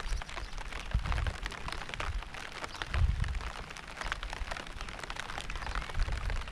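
Steady rain, a dense patter of many drops, with short dull low thumps about a second in, around three seconds in and near the end.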